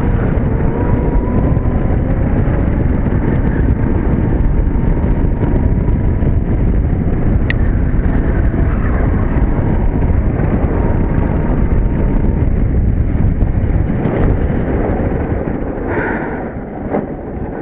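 Electric go-kart with an electric mini bike motor driving at speed: mostly wind rushing on the microphone and rolling noise, with a faint steady whine over the first part. The noise eases off near the end as the kart slows.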